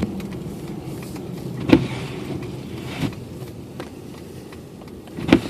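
A car driving on a snowy road, heard from inside the cabin: a steady low rumble of engine and tyres, with three sharp knocks a second or two apart.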